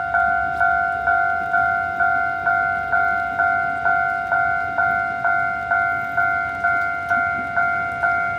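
Railway level crossing's electronic warning bell dinging steadily, about twice a second, each strike fading before the next: the crossing is closed for an approaching train. A faint low rumble runs underneath.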